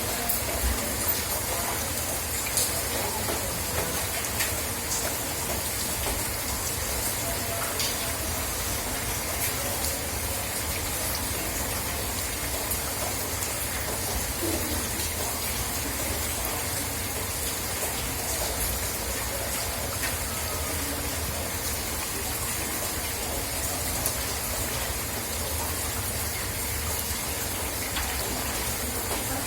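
Steady rain falling: an even hiss with scattered sharp ticks of drops striking nearby surfaces.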